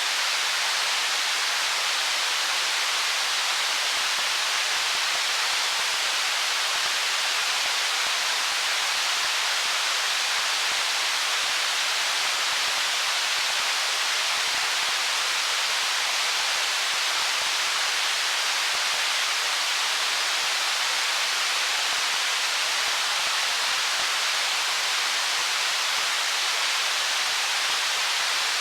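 Stream water rushing over stones: a steady, even hiss with no distinct splashes or changes.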